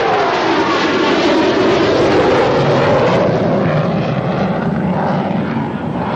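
Low-flying aircraft passing by, its engine tone dropping in pitch as it goes past, then a loud, steady roar.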